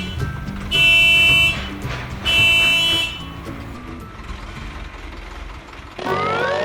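A horn honking in two blasts of about a second each, over background music. Near the end, rising whistle-like glides come in.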